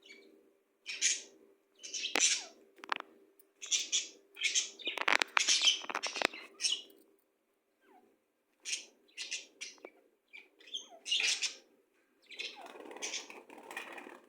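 Pet birds chirping in quick clusters of short, scratchy calls, with brief pauses between the clusters.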